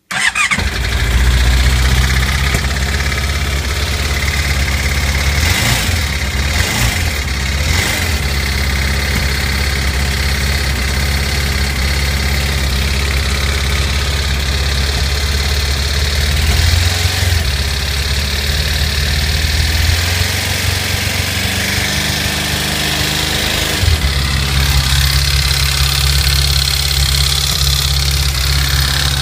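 Honda CBR600RR inline-four engine starting at once and running at a steady idle, with a knock from a self-tapping screw that has got into the combustion chamber.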